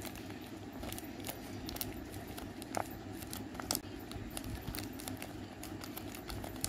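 Taped paper squishy being squeezed and pressed with the thumbs: scattered crinkling and crackling of the taped paper, with two louder crackles near the middle.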